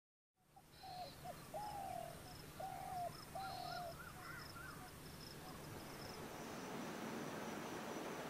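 Birds calling: clear, level whistled notes repeated about four times, each dropping in pitch at the end, then a quick run of short arched chirps, with a fast high ticking in the background over steady outdoor ambience.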